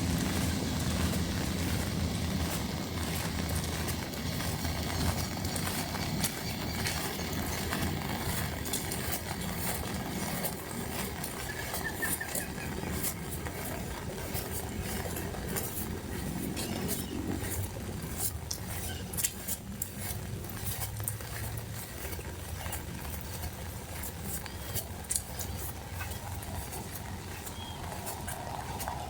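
Rain falling, with sharp ticks of individual drops scattered throughout. A low rumble is strongest in the first few seconds and then fades.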